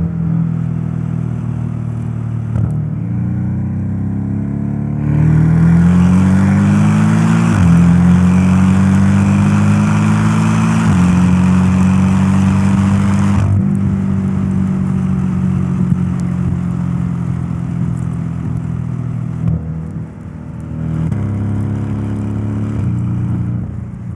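Porsche 718 Boxster S's 2.5-litre turbocharged flat-four pulling hard under acceleration, its note climbing through two quick upshifts. It then holds a steady cruise, eases off, and revs up once more before fading near the end.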